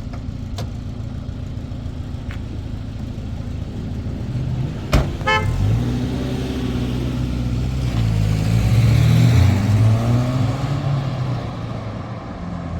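Car engine running, then revving up with its pitch climbing and dropping as it accelerates, loudest near the middle; a sharp click with a short rattle comes just before the revving.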